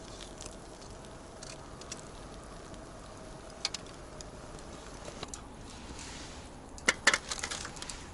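Wood fire crackling, with scattered sharp pops and a louder cluster of clicks and knocks about seven seconds in.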